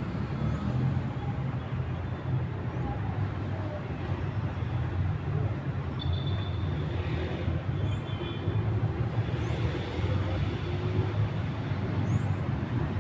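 Steady low rumble of city traffic in the background, with faint brief high-pitched squeaks about six to eight seconds in.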